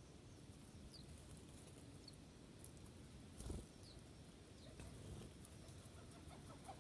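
Faint, short bird chirps, a few scattered calls, over a low background rumble, with a soft thump about halfway through.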